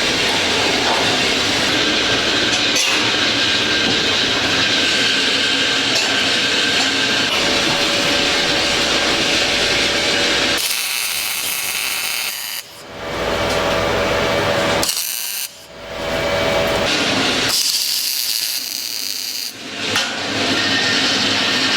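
Power tool noise in a metalworking shop: a steady, harsh hissing din for about ten seconds, then broken into three shorter spells of high hiss with quieter gaps between them.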